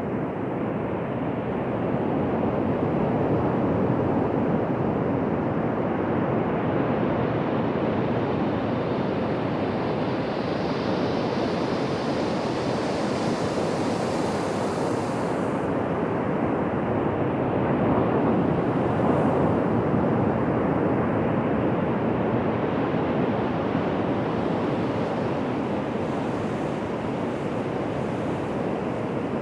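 Ocean surf breaking on a beach: a continuous rushing wash of waves that swells twice and eases between.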